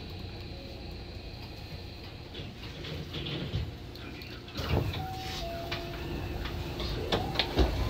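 Hankyu 7000 series electric train standing at a station, its onboard equipment humming steadily. About halfway through come a short two-note tone and a run of clicks and clunks, the loudest near the end, as the sliding doors close before departure.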